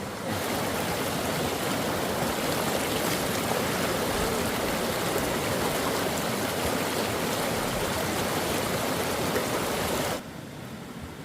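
Steady rushing of running water, cutting off suddenly about ten seconds in.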